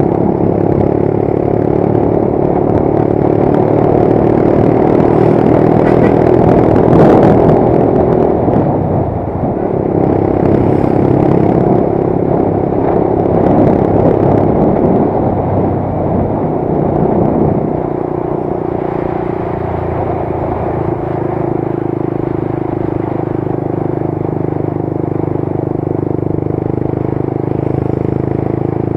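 Motorcycle engine running while being ridden. The engine note shifts about nine seconds in, then settles lower and steadier from about seventeen seconds in.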